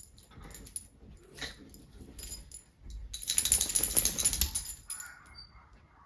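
Small hard objects rattling and jangling: scattered light clicks, then a dense rattle lasting about a second and a half near the middle.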